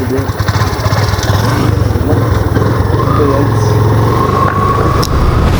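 Motorcycle engine running steadily, its low drone carrying on without a break.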